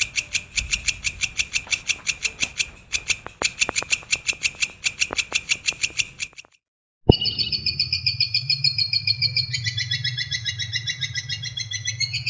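Recorded songbird song: rapid, evenly repeated high chirps, about eight a second, stop after about six seconds. After a short silent gap, a second bird recording starts with a click: a fast high trill over a low hum that steps down in pitch partway through.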